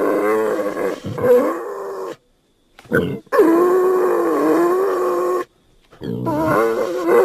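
Creature sound effect made to represent a Doedicurus, an extinct giant armoured glyptodont. It gives a series of grunting, growling calls that waver in pitch, with short silent gaps between them. There is a short call about three seconds in and a longer held call after it.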